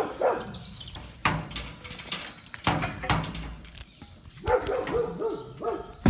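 The neighbors' dogs barking on and off.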